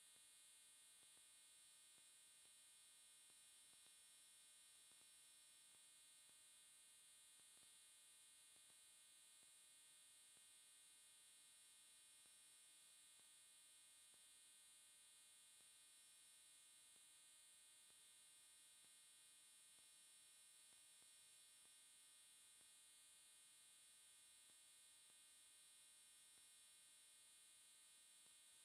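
Near silence: a faint steady electrical hum and hiss, unchanging throughout.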